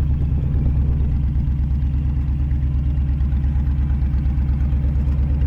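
2007 Honda VTX's V-twin engine running steadily, its exhaust note pulsing evenly.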